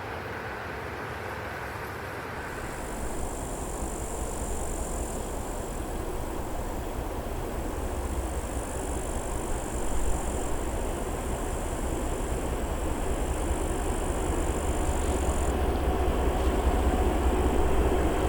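Freight train approaching: a low rumble starting a couple of seconds in and building steadily louder, with a faint high whine that comes and goes.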